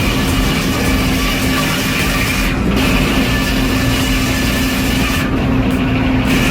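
Heavy machinery engine running steadily with a constant low hum. The high hiss drops out briefly about two and a half seconds in, and again near the end.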